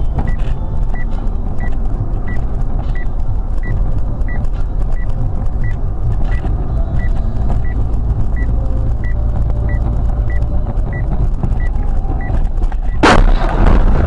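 A car on the road with a steady low rumble and a short high beep repeating about every two-thirds of a second, then a sudden loud crash about thirteen seconds in.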